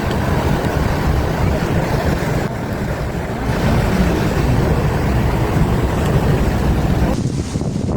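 Wind buffeting the microphone over a steady rush of storm floodwater, with no distinct events.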